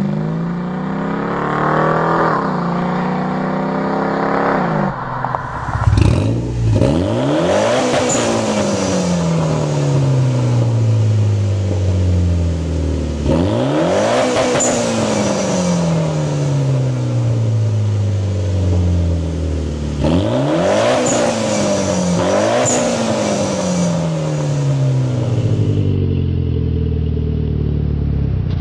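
Car engine revved hard again and again, the pitch climbing quickly to a peak and then sinking slowly back down, about four big revs in all.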